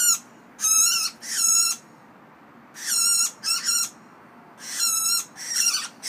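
A trapped, frightened bird calling loudly: seven short calls of about half a second each, mostly in close pairs.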